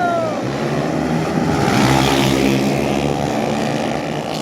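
Underbone racing motorcycles' engines revving hard as they pass, loudest about two seconds in and fading after.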